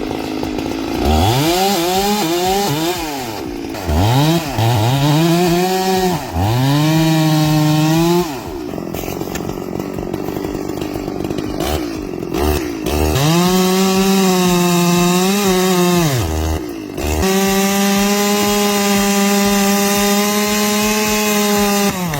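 Two-stroke chainsaw revving: several short throttle blips that rise and fall in pitch, then two longer runs held near full speed, dropping back to idle in between.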